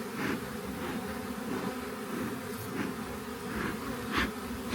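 Honey bees buzzing in a steady hum around an open hive, with a few brief hisses over it, the loudest near the end.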